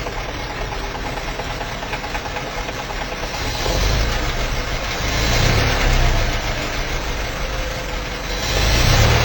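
Plymouth Valiant's 318 cubic inch V8 with an Edelbrock four-barrel carburettor and dual exhaust, running. It gets louder about three and a half seconds in and again near the end.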